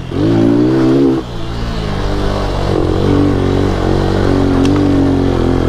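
Lifan KP Mini 150's single-cylinder engine running under throttle while the bike is ridden. It is strongest for the first second, eases off about a second in, then holds a steady pitch.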